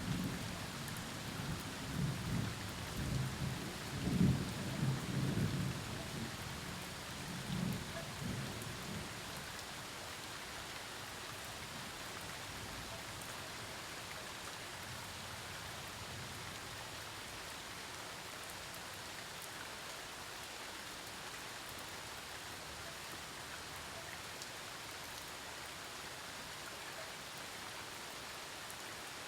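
Thunderstorm: steady rain with thunder rumbling in the first half, loudest a few seconds in and fading out by about nine seconds, after which only the even hiss of rain remains.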